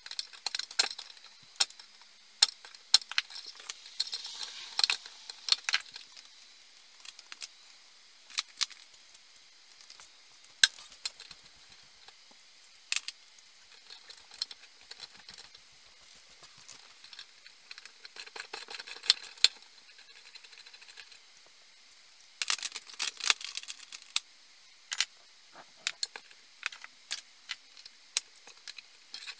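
Irregular sharp metallic clinks, taps and clicks of small parts and hand tools being handled, coming in clusters with short lulls between.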